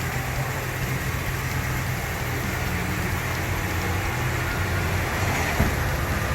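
Ram 1500 pickup's engine idling steadily, with a constant hiss over it and a single brief knock about five and a half seconds in.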